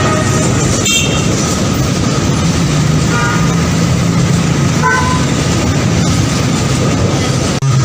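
Train running with a steady low rumble and rushing noise, with two brief short horn toots about three and five seconds in.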